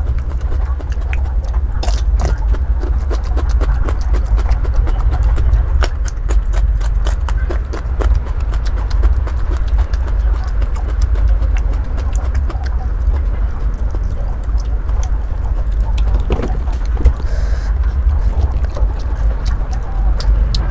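Close-miked crunching and chewing of raw bitter gourd, many sharp irregular crunches over a steady low rumble.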